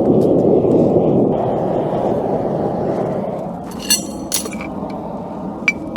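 A steady rushing noise dies away past the middle. Then comes a pair of ringing metallic clinks, steel striking steel at the anvil, and a sharp light tap of the hammer near the end.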